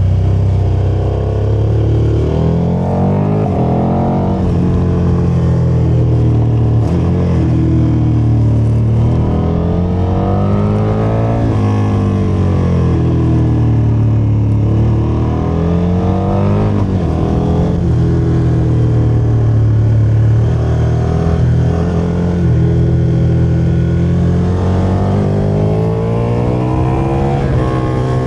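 KTM motorcycle engine under way, its pitch climbing and dropping again and again as the throttle is opened and closed.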